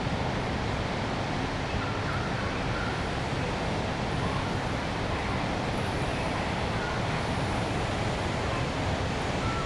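Steady urban road traffic noise: a continuous, even wash of passing vehicles, with a few faint, brief high notes here and there.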